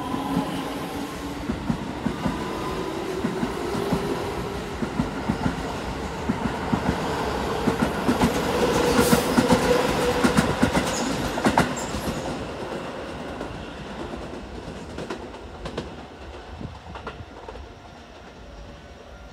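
A Keio Line electric train departing from the station. Its traction motors whine while the wheels clack over the rail joints. The clacking builds to its loudest about halfway through, then fades as the train draws away.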